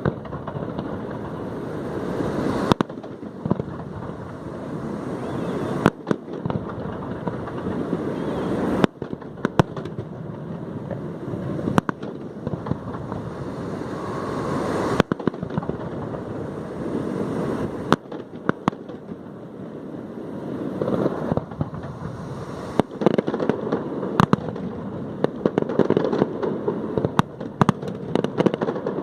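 Aerial fireworks display: single sharp bangs of bursting shells every two to three seconds over a steady rushing crackle, with the bangs coming thicker and faster near the end.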